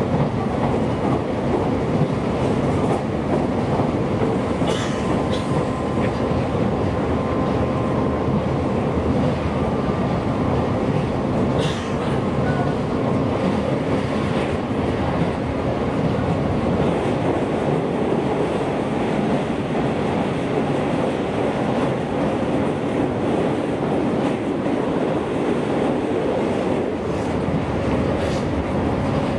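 JR East Joban Line electric train running at speed, heard from inside the carriage: a steady rumble of wheels on rails, with a few sharp clicks about five and twelve seconds in.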